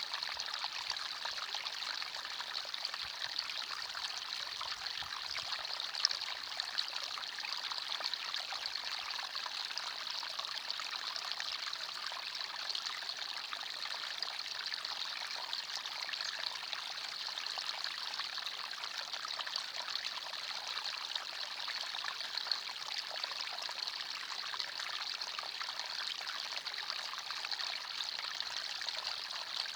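Small forest stream flowing steadily over stones, a continuous bright babbling and trickling of water.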